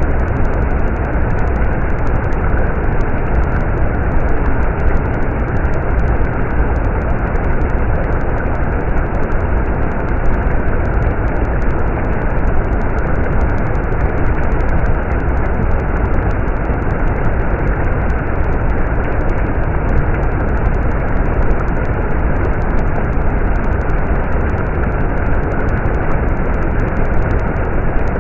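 Stream water flowing steadily, an even, unbroken noise.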